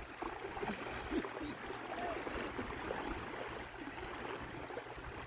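Steady wash of surf, with wind rumbling on the microphone and faint voices in the background.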